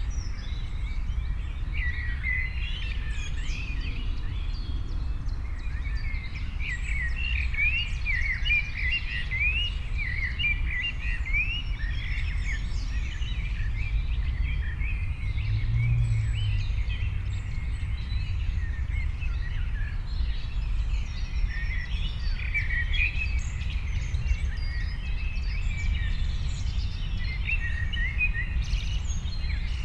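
Several birds chirping busily in quick, short notes over a steady low background rumble.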